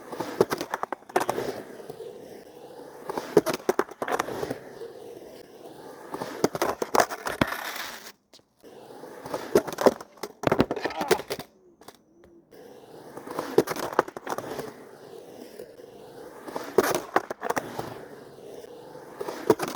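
Skateboard rolling, its wheels running with repeated clacks and scrapes of the board and trucks as the rider goes for a grind. Two runs, with a pause of a few seconds between them.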